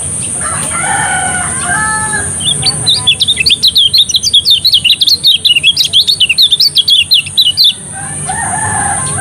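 Lemon-bellied white-eye (kecial kuning) singing a fast, loud twittering run of short high notes for about five seconds through the middle, with a lower-pitched call about a second in and again near the end.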